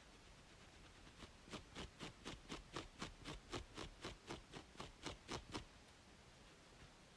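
Quick scratching strokes on a scalp between braids, about four or five a second, starting about a second in and stopping a little before six seconds. A steady background hiss of white noise runs underneath.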